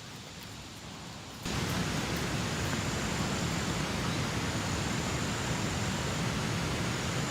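Steady rushing hiss of water, starting abruptly about a second and a half in after a quieter hiss.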